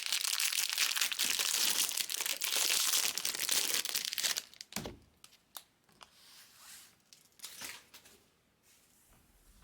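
Foil trading-card pack wrapper crinkling as it is torn open and crumpled, for about four and a half seconds, then a few light taps.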